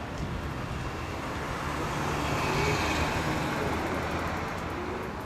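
Steady low engine hum and road noise of a moving vehicle, swelling slightly in the middle.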